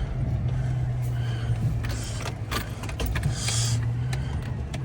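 Truck engine running steadily in four-wheel drive, pulling out through deep snow, with a few clicks and two short hissy noises about two and three and a half seconds in.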